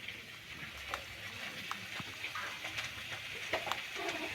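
Street-market background: a steady hiss with scattered sharp clicks and a faint voice near the end.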